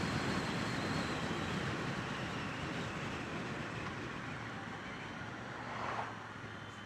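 Triumph Bonneville T120 parallel-twin motorcycle riding along, its engine mixed with wind and road noise, gradually getting quieter as the bike slows.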